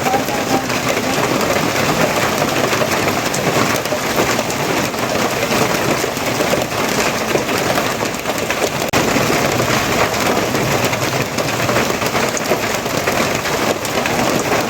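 Steady heavy rain falling and splashing on surfaces.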